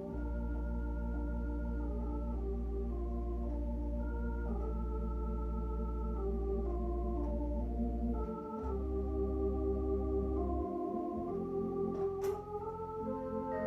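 Organ-voiced keyboard playing a song introduction: sustained chords with a melody moving above them over a held bass note. The bass stops briefly about eight seconds in and again near eleven seconds, and a sharp click sounds just after twelve seconds.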